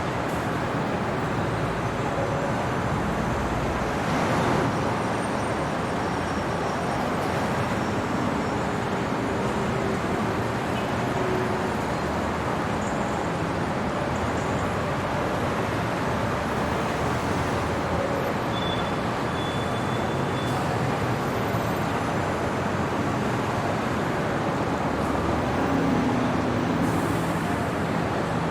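Steady city traffic noise: a continuous hiss of passing vehicles, swelling slightly a few seconds in and near the end, with faint short tones over it.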